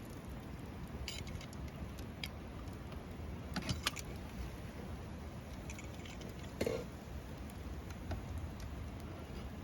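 Campfire crackling: a few sharp snaps and pops scattered over a low steady rumble of burning wood.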